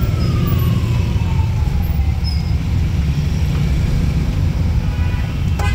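Steady low rumble of road and wind noise from a moving vehicle, with a thin whine that falls slowly in pitch over the first two seconds.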